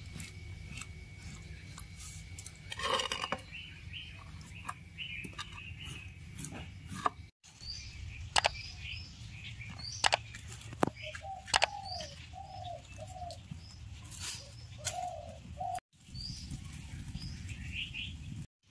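Birds chirping in short repeated calls, with a run of lower wavering calls in the middle, over a low steady background noise. Sharp clicks and knocks come now and then.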